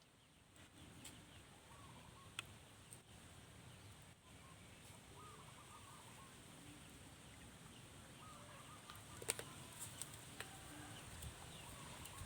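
Faint, scattered short chirping calls from birds or small animals, with a few light clicks.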